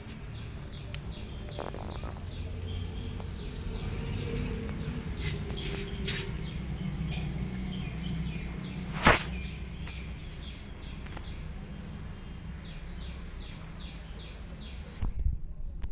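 Small birds chirping over and over in short high notes above a steady low rumble, with one sharp click about nine seconds in and a brief thump near the end.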